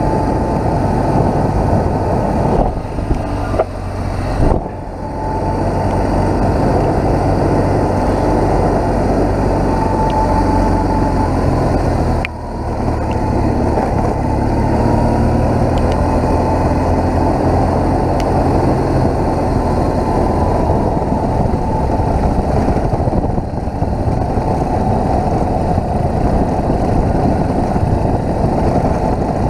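BMW motorcycle engine running under way, with a steady rush of wind and road noise over it; the level dips briefly a few seconds in and again about twelve seconds in, as when the throttle is eased off for a gear change.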